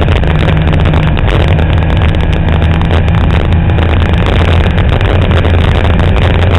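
Fiat 127 Abarth race car's four-cylinder engine, heard loud inside the cabin, running hard at high, nearly steady revs.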